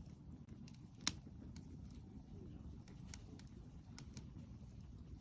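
Wood fire crackling, with scattered sharp pops and one loud snap about a second in, over a low steady rumble.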